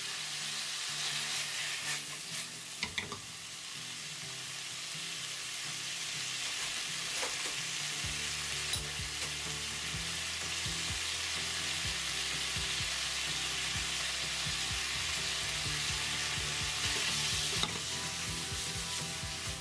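Chicken strips, sliced red onion and garlic sizzling steadily as they stir-fry in a wok, with a few light clicks of the spatula as it is stirred.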